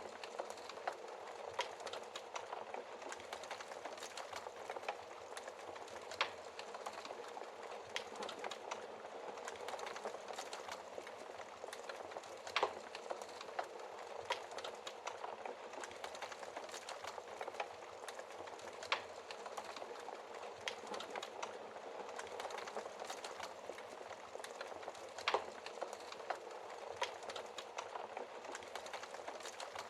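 Wood fire burning in a fireplace: a steady hiss of flames with continual small crackles and a louder pop every few seconds.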